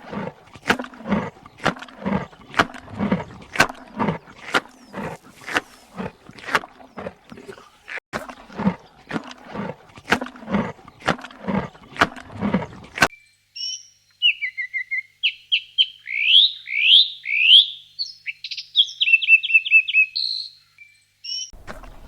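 A run of sharp clicks or knocks, about two a second, that stops abruptly after about thirteen seconds. A small songbird follows, singing rising whistled notes and quick trills.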